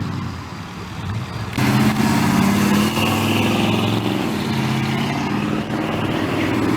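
A car's engine running as it drives off, quieter at first, then suddenly louder about a second and a half in and holding steady.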